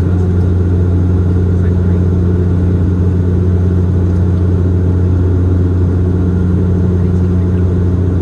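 Bombardier Dash 8-Q400 turboprop engines and propellers heard from inside the cabin in flight: a steady, deep drone with one strong low hum and its overtone, unchanging throughout.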